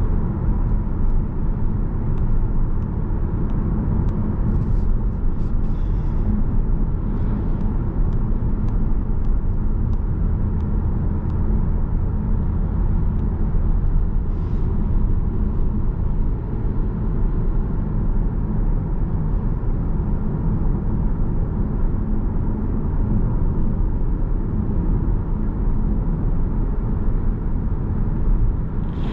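Steady road noise of a car driving: a low engine and tyre rumble, with a few faint light ticks scattered through it.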